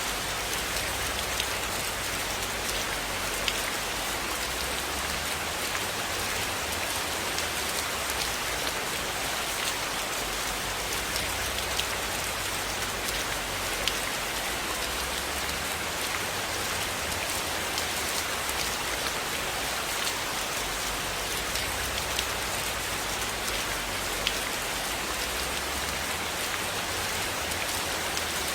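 Steady rain falling on a cabin roof, an even hiss, with scattered sharp crackles from a wood fire and a soft low rumble that swells and fades underneath.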